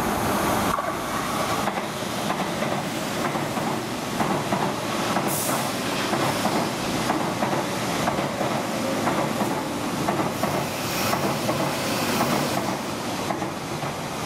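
A Metro Cammell MLR electric multiple unit passing close by at speed: a steady rumble and hiss of wheels on rail, with a regular clatter of wheels over the track.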